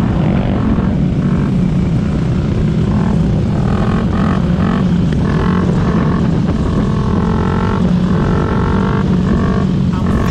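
Supermoto motorcycle engine running under way with a steady drone. Its pitched note holds level for a second or two at a time, with short breaks between.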